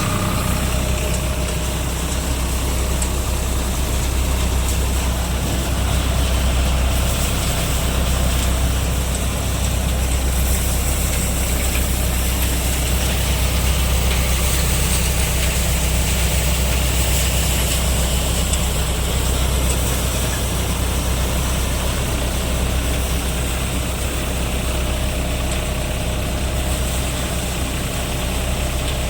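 Deutz-Fahr Agrolux 50 tractor engine running steadily at constant speed, driving a multicrop thresher threshing mustard: a deep, even engine drone under a loud, continuous rushing noise from the thresher.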